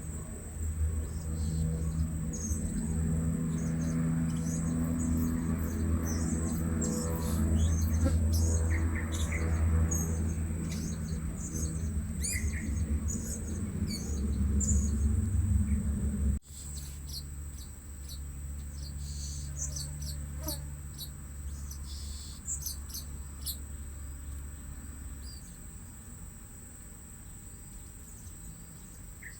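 Blue-crowned hanging parrots giving many short, high-pitched chirps over a steady high insect drone. A low rumble under them in the first half cuts off suddenly about sixteen seconds in.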